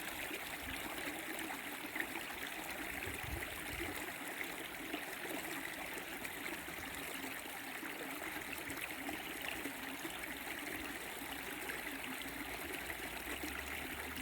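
Shallow creek flowing and babbling steadily.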